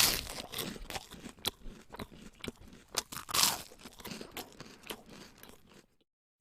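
Close-up crunching and chewing of crisp food: a run of irregular crunches, then an abrupt cut to silence near the end.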